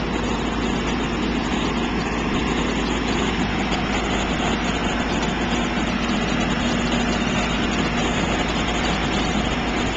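Fire engine's diesel engine running its water pump, a steady drone with a hum that fades about eight seconds in, under the continuous hiss of water jets spraying.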